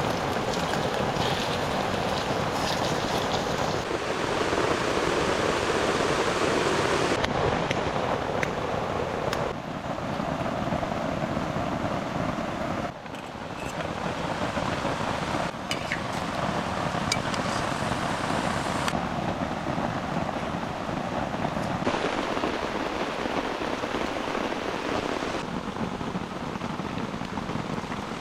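Heavy rain with wind: a steady rushing noise that shifts abruptly in tone several times, with a few sharp ticks of drops.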